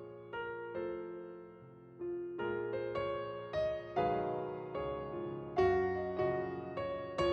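Background music: gentle piano playing slow chords, each struck and left to fade.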